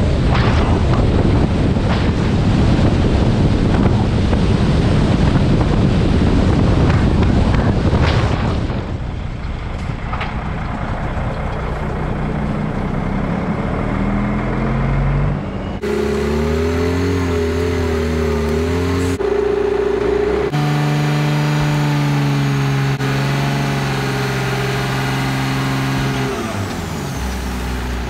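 Truck engine and road noise while driving. About the first eight seconds are a loud rushing drive, after which the engine's steady hum takes over, changing pitch with some abrupt cuts between shots.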